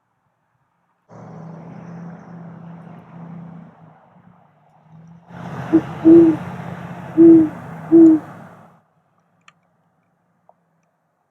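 Great horned owl hooting: four low hoots in a quick rhythm, a short one followed by three longer ones, from about five to eight seconds in. A steady hiss and low hum runs underneath and cuts in and out abruptly.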